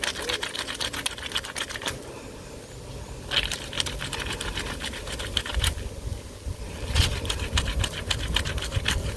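A wet, soapy shirt cuff rubbed hard against itself by hand, back and forth, in quick rhythmic strokes. The scrubbing comes in three spells, pausing briefly about two seconds in and again near six seconds.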